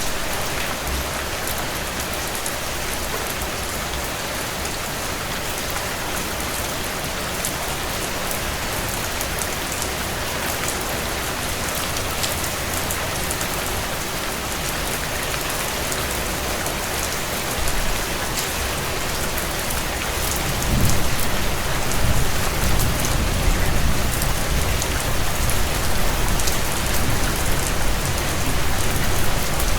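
Heavy rain on a tin roof: a steady hiss with sharp drop ticks on the metal. About two-thirds of the way through, a low rumble sets in underneath and the sound grows louder.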